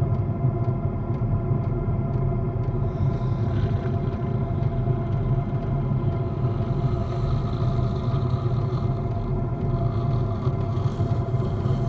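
A vehicle engine running steadily, a low even rumble with a constant pitch.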